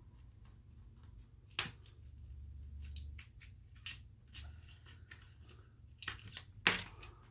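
Small clicks and scrapes of a Samsung Galaxy S8's battery being pried out of its frame, with a louder, sharper click near the end.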